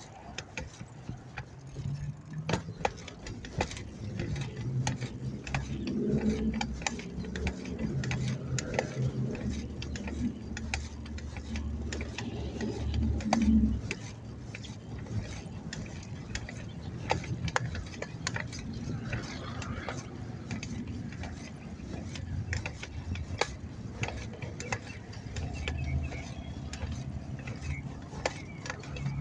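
Bicycle rear hub freewheel ratcheting in quick clicks as the bike coasts, over a low rumble of traffic that is louder for several seconds in the middle.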